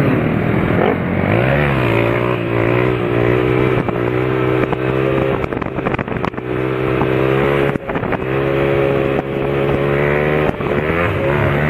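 A vehicle engine running steadily, with a short rise in revs about a second and a half in and a brief drop near the middle.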